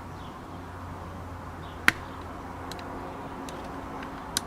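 A sharp click about two seconds in and a softer one near the end, with a few fainter ticks between, over a low steady hum.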